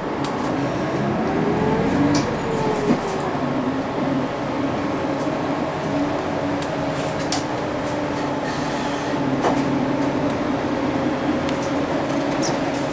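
Onboard running sound of a UD (Nissan Diesel) Space Runner RA non-step city bus. The diesel engine climbs in pitch as the bus accelerates, drops at a gear change about two seconds in, then holds steady at cruise over road noise, with a few short knocks and rattles.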